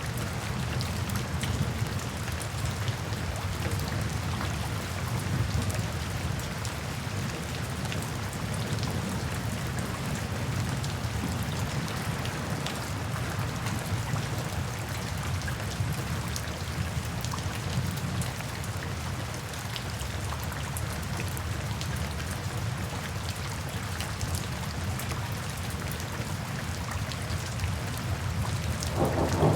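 Steady rain falling: a continuous even hiss dotted with fine ticks of individual drops. Right at the end a low rumble of thunder begins to build.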